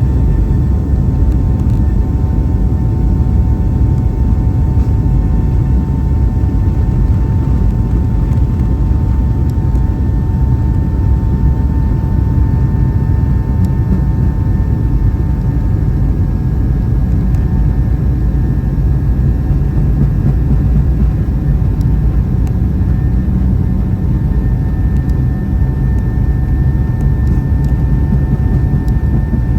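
Cabin noise of a Boeing 737-800 with its CFM56-7B turbofan engines running steadily: a loud, deep rumble with a steady whine over it.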